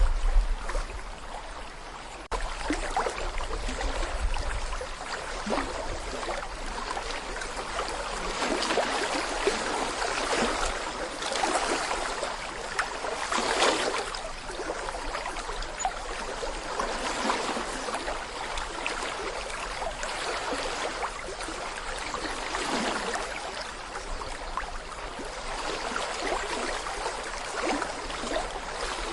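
Small brook babbling over stones: a steady rush of running water with many small gurgles and trickles, swelling a little around the middle. A low rumble sits under it during the first few seconds.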